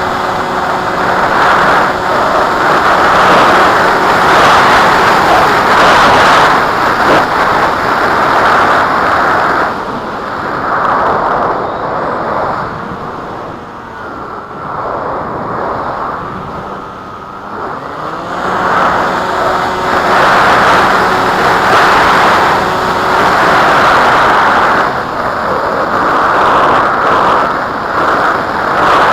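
Strong wind buffeting the microphone: a loud rushing noise that swells and eases in gusts, calmer for several seconds in the middle, with a faint steady hum underneath.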